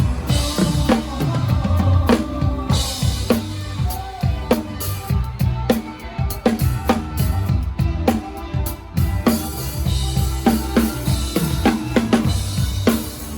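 Live drum kit played close up in a band, with kick drum, snare and cymbal hits driving a steady beat. Bass and other band instruments sound underneath.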